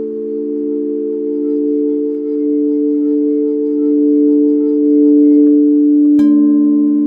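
Several singing bowls ringing together in sustained, overlapping low tones with a slow wavering beat. About six seconds in, another bowl is struck and a new tone joins the ring.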